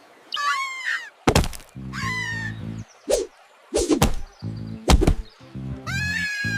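Cartoon monkey chattering in high, bending calls three times, over jungle drum music with sharp knocks and a low steady beat.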